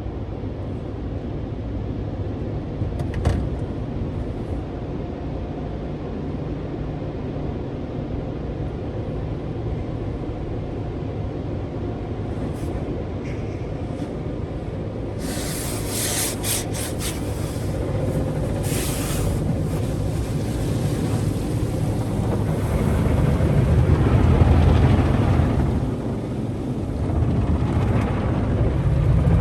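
Steady low rumble of a car and car-wash tunnel machinery, with a click about 3 s in. About halfway through, a run of short hissing bursts starts, and the rumble swells louder near the end.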